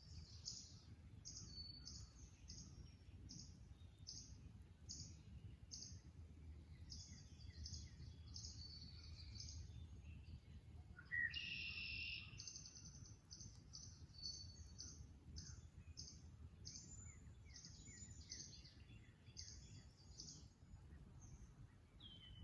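Faint dawn chorus of small songbirds in a marsh: a run of quick, high chirps repeating over a low steady rumble. One louder, harsher call comes about halfway through and lasts about a second.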